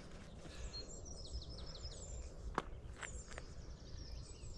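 Faint birdsong outdoors: a quick run of high chirps about a second in, over low steady background noise. A few sharp clicks sound in the second half, the first the loudest.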